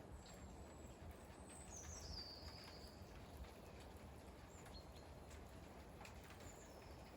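Faint, thin, high bird calls: a descending whistle from about one to three seconds in, then two brief chirps later. Under them is a low, steady background rumble.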